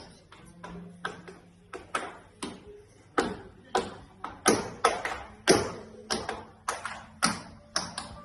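Tap shoes striking the floor in an unaccompanied tap break: a string of sharp, separate clicks and heel-toe strikes in an irregular rhythm, growing louder toward the middle. A faint low bass note sounds in the first second or so.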